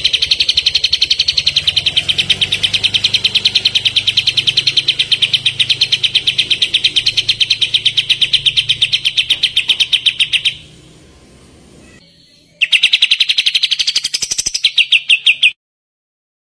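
Kapas tembak birdsong: a fast, even trill of sharp, high notes at about eight a second, running about ten seconds, breaking off, then starting again for about three seconds and cutting off suddenly.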